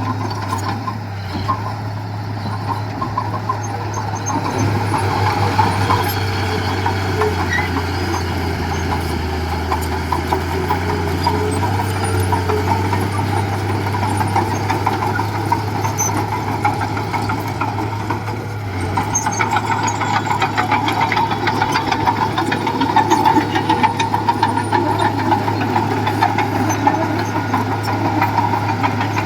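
Diesel engine of heavy earthmoving equipment running steadily, growing louder about two-thirds of the way through.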